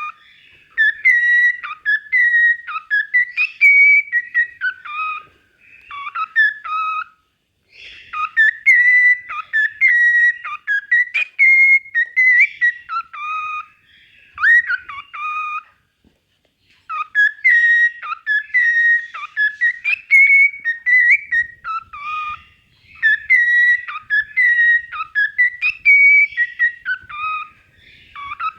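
Cockatiel whistling its song: warbling phrases of whistled notes that slide up and down, in runs of several seconds broken by short pauses about six and sixteen seconds in.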